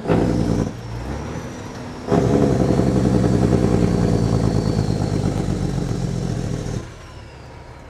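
Kenworth W900's diesel engine through loud exhaust pipes, pulling hard under load about two seconds in with a fast pulsing exhaust note and a faint turbo whistle above it. Near the end it drops back to a low rumble as the throttle is let off.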